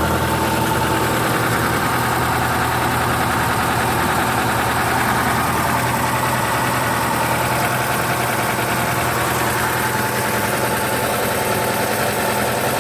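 1968 Ford Capri 1600's four-cylinder Kent crossflow engine idling steadily and evenly, running real sweet.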